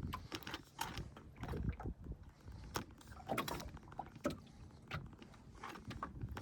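Scattered light knocks, clicks and rattles aboard a small fishing boat, coming at irregular moments over a low rumble.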